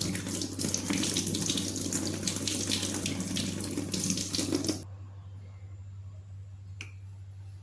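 Water running from a tap into a sink, shut off suddenly about two-thirds of the way through, followed by a single click.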